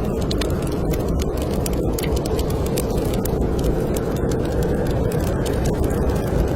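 Wood fire crackling in a fireplace, with frequent sharp pops, over the steady low rush of snowstorm wind.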